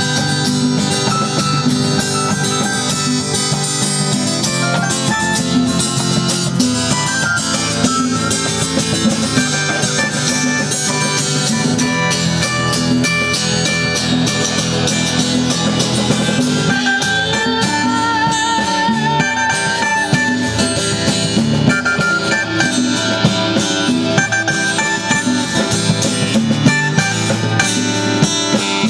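Live band playing an instrumental rock jam: guitars over drums and hand percussion, with a wavering lead guitar line coming in about two-thirds of the way through.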